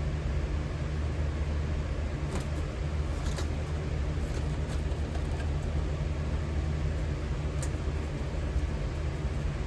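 Metal-melting furnace running with a steady low rumble while copper heats, with a few faint ticks.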